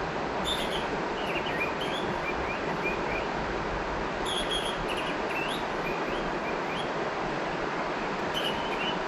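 River water flowing steadily, with small birds chirping in short, high phrases several times over it.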